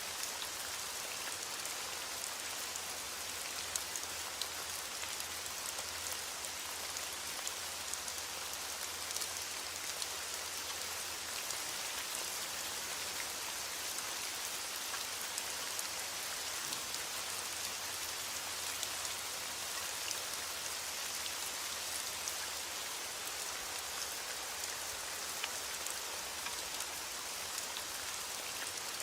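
Steady rain falling and pattering on a surface, with many small drop ticks over an even hiss.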